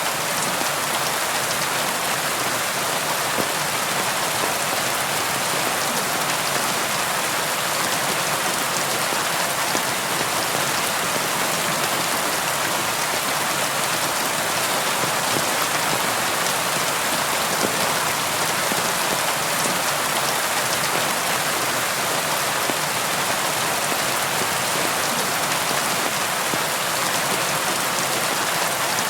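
Steady rainfall, a dense even hiss of rain with scattered individual drops ticking on a surface, with no thunder.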